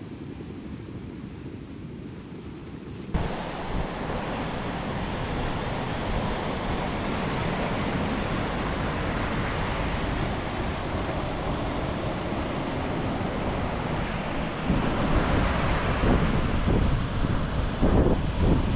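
Ocean surf washing on the beach with wind buffeting the microphone; the first few seconds are quieter and duller, and the gusts grow stronger near the end.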